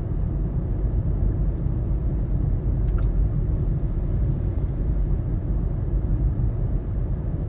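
Steady low road and engine rumble of a car being driven, heard from inside the cabin, with one faint click about three seconds in.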